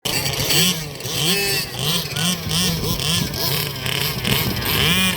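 Several 1/5-scale petrol RC cars' two-stroke engines revving up and down over and over, their pitches overlapping in a rough, buzzing racket as they race.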